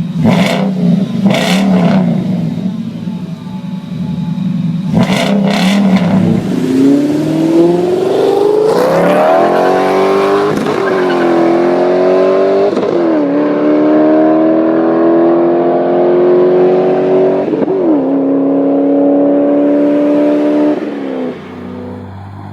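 A car's engine and exhaust idle with a few sharp cracks. About six seconds in, the engine goes to full throttle and its note climbs through the gears, dipping at each of several upshifts. It cuts back as the throttle lifts near the end.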